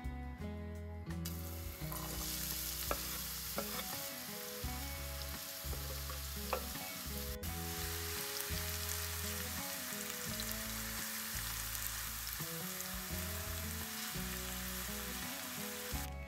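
Chopped onion and garlic sizzling in hot oil in a frying pan, starting about a second in, with a few clicks of a silicone spatula stirring against the pan.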